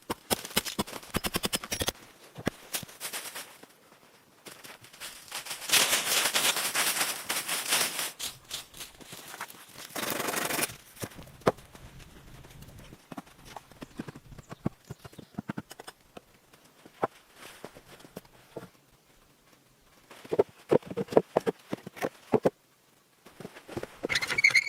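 Irregular sharp knocks and taps, with two longer bursts of scraping noise in the middle and a quick run of knocks near the end.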